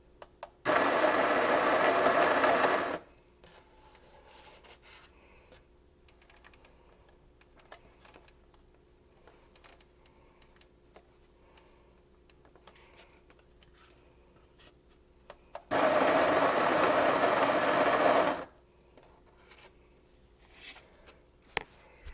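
KitchenAid KCG8433 conical burr coffee grinder running in two short bursts of about two and a half seconds each, grinding beans, the second burst about fifteen seconds after the first. Faint clicks and taps in between.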